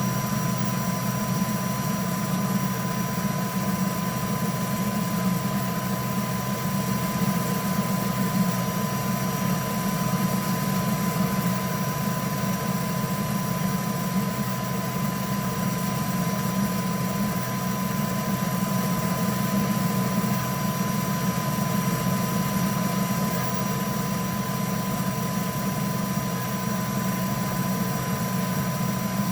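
3D printer running: a steady hum with a thin high whine from its stepper motors and cooling fans.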